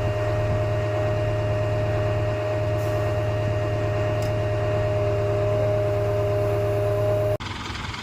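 A steady engine hum with a few steady tones over it, running evenly and then cut off abruptly a little before the end, giving way to a different engine sound.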